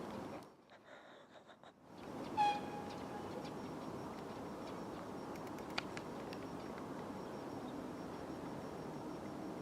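Electric train horn giving one short, high toot about two and a half seconds in, over a steady low rumble of the station and trains. Just before the toot the sound drops briefly to near silence, and a single click comes near six seconds.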